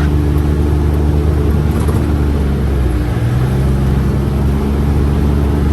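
UTV side-by-side engine running steadily under way, with a deep low hum that shifts slightly in pitch about halfway through.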